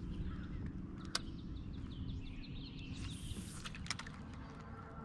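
Outdoor lake ambience: a steady low rumble under a bird's rapid trill of quick repeated high notes starting about a second and a half in, with a couple of sharp clicks and a brief hiss.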